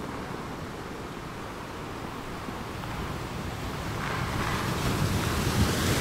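Ocean surf washing on the beach, with wind rumbling on the microphone; the wash of a wave swells louder over the last couple of seconds.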